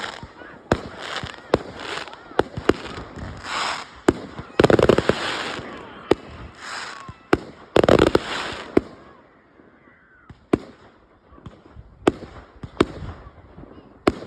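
Fireworks display: a quick string of sharp bangs and bursts, with two big loud bursts about five and eight seconds in, then thinning out to scattered single bangs.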